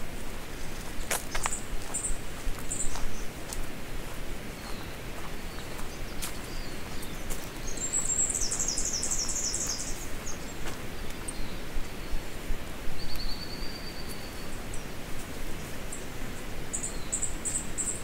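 Forest birds calling: a few short high chirps, then a fast high trill lasting about two seconds roughly eight seconds in, a brief whistled note a few seconds later and more chirps near the end, over a steady low hiss.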